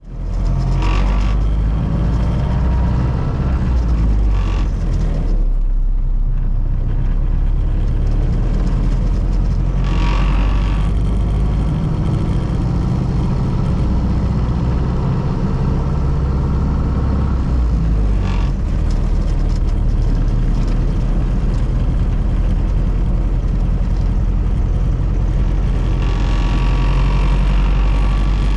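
1932 Ford Model B's four-cylinder engine running steadily under way, with a few brief surges in engine noise.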